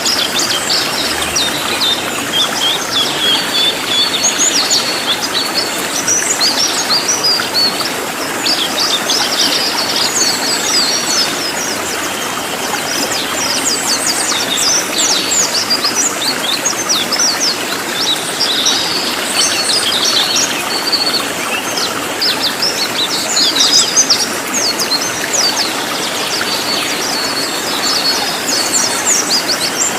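A cililin songbird calling in rapid, dense runs of short, sharp, high-pitched chirps, with a few brief lulls, over the steady rush of a stream.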